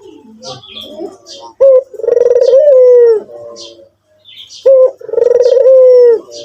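White ringneck (Barbary) dove cooing twice. Each call is a short sharp note followed by a long drawn-out coo that drops in pitch at the end.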